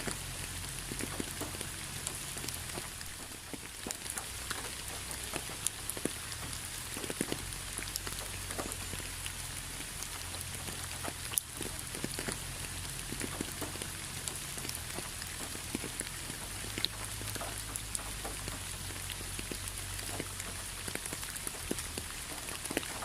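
Steady rain with many separate drops pattering on a surface, individual drips ticking sharply over a constant hiss.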